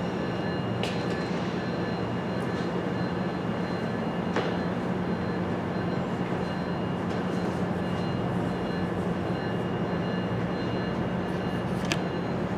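MARC commuter train standing at the platform: a steady, even train hum with faint high tones above it and a few brief clicks.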